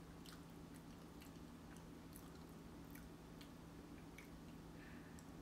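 Faint chewing with small irregular mouth clicks, over a low steady hum.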